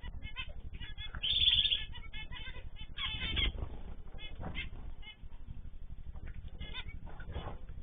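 A flock of small cage birds chirping constantly in quick, overlapping calls. There is a louder burst of calling about a second in and another about three seconds in.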